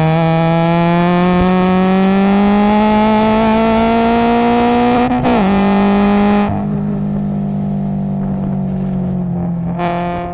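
Subaru BRZ's tuned 2.0-litre flat-four race engine, heard from inside the cabin, at full throttle with its note climbing steadily. It drops sharply at an upshift about five seconds in and pulls again. About a second and a half later it eases off the throttle to a steady, quieter drone, then comes back on power near the end.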